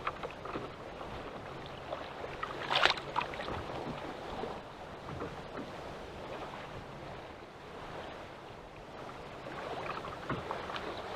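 Choppy waves lapping against a small boat's hull with wind on the microphone, and one sharp, loud splash-like hit about three seconds in.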